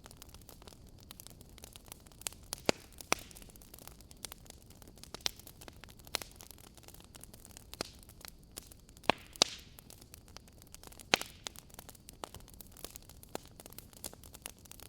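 Fireplace crackling: irregular sharp pops and snaps over a faint steady hiss, with a few louder pops.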